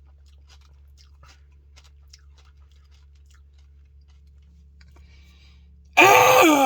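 Faint mouth clicks and chewing of a person eating a spoonful of Blizzard ice cream with crunchy puppy chow pieces. Near the end comes a loud, drawn-out wordless vocal sound.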